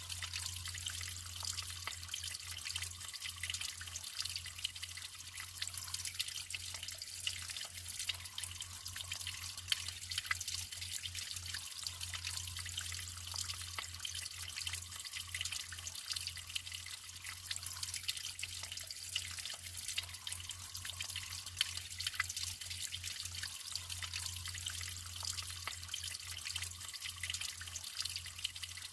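Natural running water trickling and splashing steadily, with many small drips and splashes.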